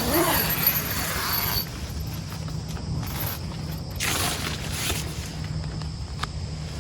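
Tent zipper being pulled, in two rasping strokes: one at the start lasting about a second and a half, another about four seconds in, with a sharp click near the end.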